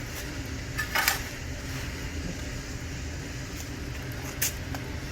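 Wood campfire burning with a steady low rumble and a few sharp crackles from the burning firewood, about a second in and again near the end.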